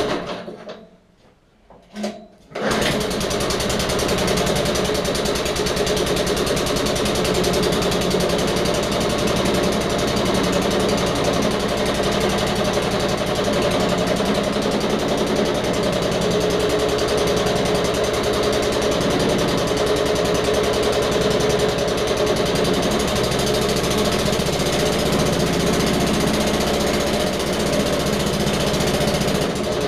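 Suffolk Punch 43S petrol lawnmower engine running steadily after being revived. Near the start the sound drops almost to silence for about two seconds, with one short burst, before the running resumes.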